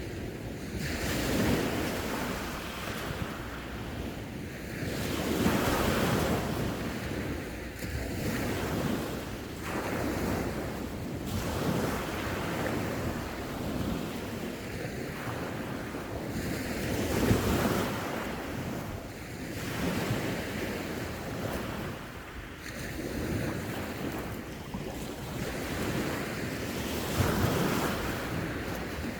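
Sea waves breaking and washing on the shore, rising and falling every few seconds, with wind buffeting the microphone.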